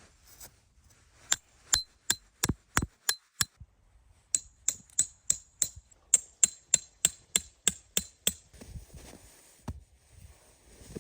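Hammer driving metal tent pegs with quick, ringing metal-on-metal blows, about three a second: a first run of about seven, then after a short pause a longer run of about thirteen.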